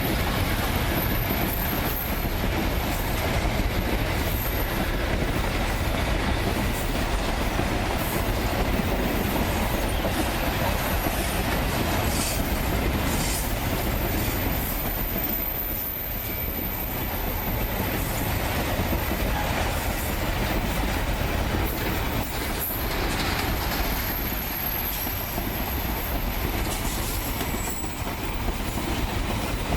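Freight train rolling past, with a steady rumble of wheels on the rails and clicking over the joints. A high-pitched wheel squeal comes and goes.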